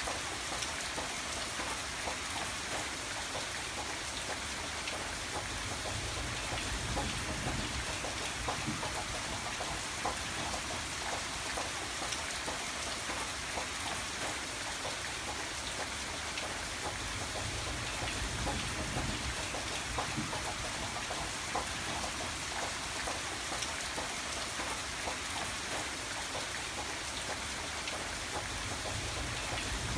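Steady rain falling, a dense even hiss with many separate drops striking a surface.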